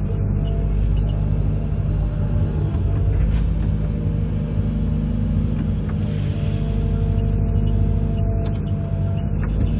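Amphibious excavator's diesel engine running steadily with a low rumble, with a few faint knocks.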